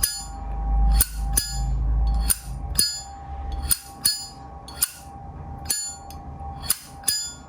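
Vintage chrome Zippo lighter's hinged lid flicked open and snapped shut again and again: about ten sharp metallic clicks, some in quick pairs, each with a brief high ring.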